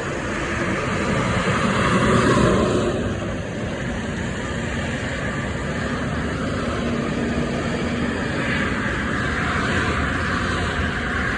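Steady street traffic noise with a vehicle passing, loudest about two to three seconds in.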